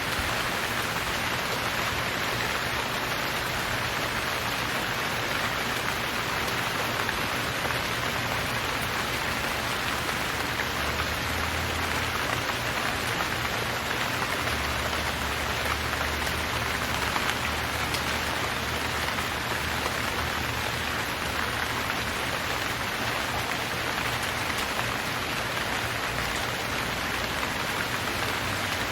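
Steady heavy rain, an even hiss of many drops falling on surfaces. A faint low rumble sits underneath for part of the time, from about a third of the way in to about three quarters.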